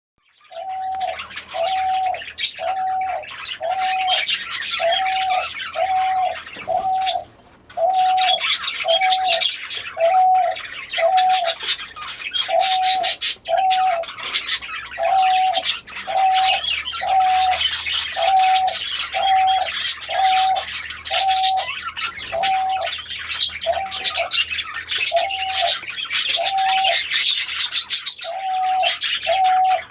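Caged pigeons or doves calling: a steady string of short, evenly spaced coo notes, about one a second, over constant dense chirping from many birds. The chirping drops out briefly about a third of the way in.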